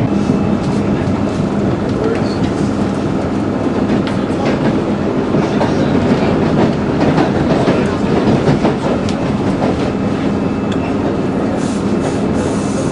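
Passenger train running, heard from inside the carriage: a steady, loud rumble of wheels on the rails with faint clicks.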